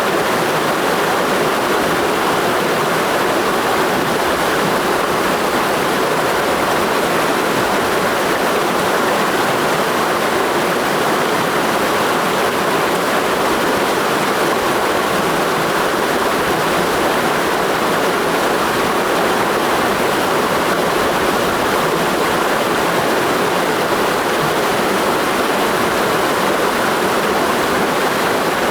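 Mountain stream rushing steadily over rocks in a gorge: an even, unbroken rush of water.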